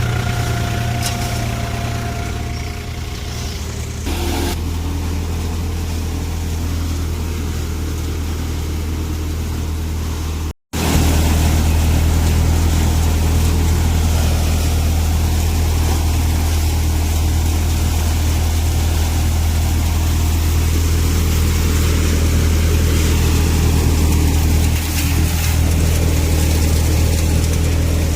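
New Holland 4710 tractor's three-cylinder diesel engine running steadily, powering a thresher. The sound cuts out briefly about ten seconds in, then resumes louder.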